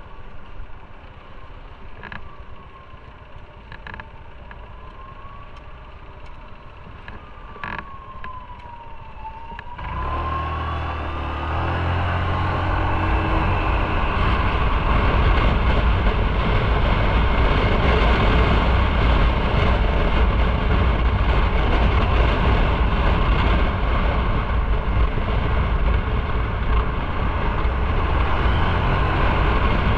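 Motorcycle riding on the road. At first it is quieter, with a tone that rises and falls several times and a few sharp clicks. From about ten seconds in, the engine and wind noise swell into a loud, steady low rumble as the bike picks up speed.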